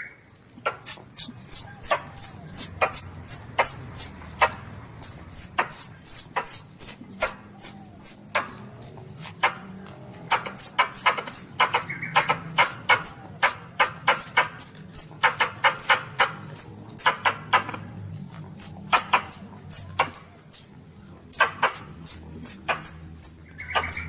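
Calls of a baby Asian palm civet (luwak), played as a hunting lure: rapid high squeaks, each falling in pitch, two to three a second in bursts with short gaps.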